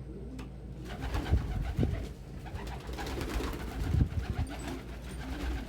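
Domestic pigeons cooing low, mixed with rustling and soft thumps of movement.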